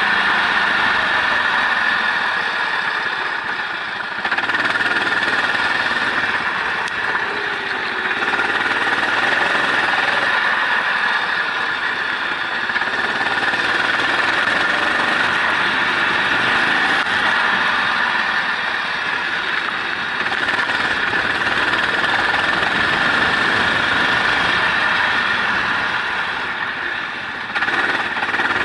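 A racing engine running hard and continuously at high revs on a wet circuit. The level dips and picks up again about four seconds in and again near the end.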